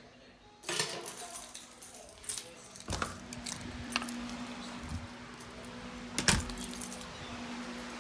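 Keys jangling amid a run of sharp handling clicks and knocks, the loudest about six seconds in, with a steady low hum coming in about three seconds in.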